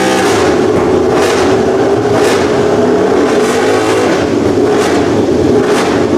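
Honda RC213V MotoGP racing motorcycle's V4 engine running loud, with a short rise in the exhaust note about once a second.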